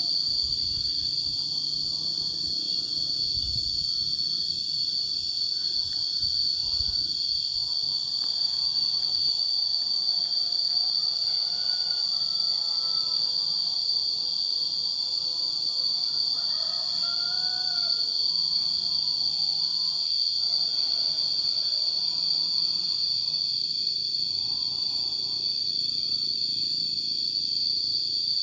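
A steady, unbroken high-pitched insect chorus. Faint wavering tones sound under it from about a third of the way in until past the middle.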